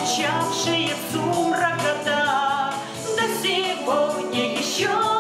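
Live folk ensemble music: voices singing a melody over instruments, with a steady low note underneath.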